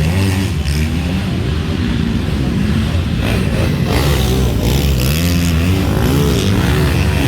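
Motocross motorcycles running on a dirt track, engines revving up and down, with the revving rising and falling more strongly near the end.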